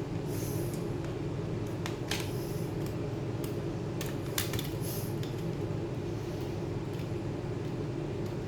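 Scattered light metallic clicks and taps of small tools and parts as a MacBook Pro is taken apart, over a steady low hum.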